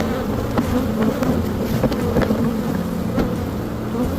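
A mass of honey bees buzzing around an open hive during a colony transfer, a steady drone with a few faint clicks.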